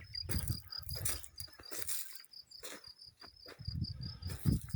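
A cricket chirping steadily: short, high chirps repeated several times a second. Under it is an intermittent low rumble on the microphone.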